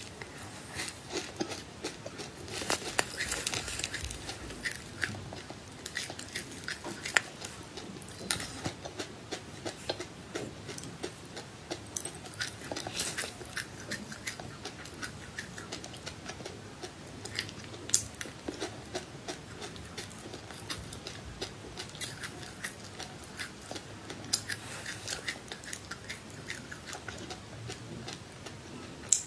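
A person chewing and biting food close to the microphone, with many small irregular crunches and crackles.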